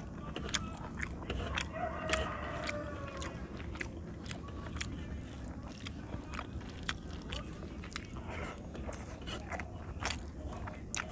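A person eating with his hand, chewing rice and fish curry with wet smacks and many sharp mouth clicks, while his fingers mix and squish rice on a brass plate.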